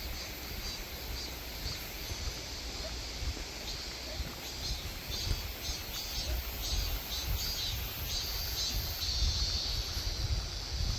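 Outdoor countryside ambience: repeated high chirping calls over a steady low rumble, the chirping growing busier in the second half.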